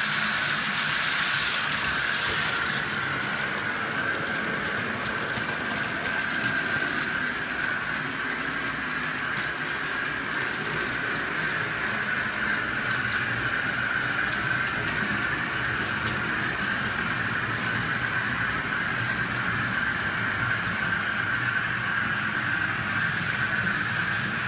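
OO gauge model train running along the track: a steady running noise with a constant whine, with no change in pace.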